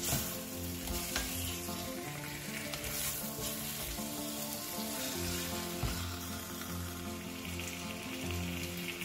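Chicken pieces coated in spice paste sizzle and fry in a stainless steel wok while a wooden spatula stirs them, with a few sharp knocks of the spatula against the pan.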